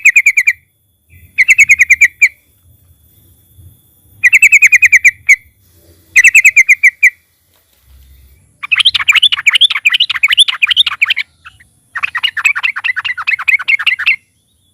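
Yellow-vented bulbul (trucukan) calling: four short phrases of rapid notes, then two longer bursts of fast chattering, each about two seconds long.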